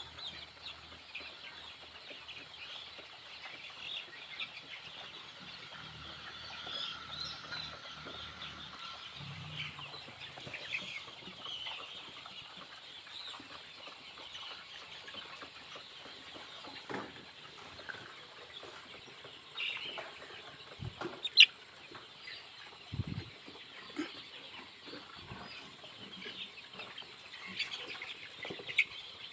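A flock of desi chickens peeping and clucking continually in short, high calls, with a few soft knocks and one sharp click a little past two-thirds of the way in.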